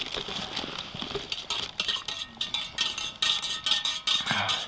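Quick, irregular light metallic clinks and scrapes of utensils against metal dishes, starting about a second and a half in.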